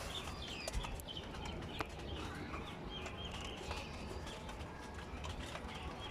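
Racing-pigeon loft ambience: faint high bird chirps and scattered light clicks from the birds, over a low steady hum.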